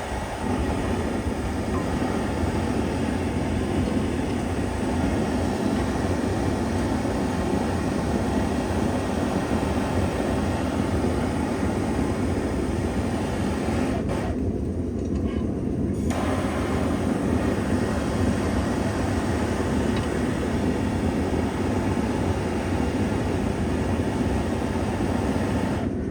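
Steady, continuous rumbling noise from running shop equipment, with no distinct strikes or rhythm; its higher hiss dulls briefly about halfway through.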